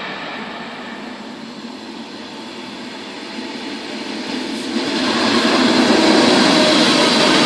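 Electric locomotive hauling passenger coaches, approaching and passing through a station. Its running noise and wheel rumble on the rails are faint at first and swell sharply from about five seconds in.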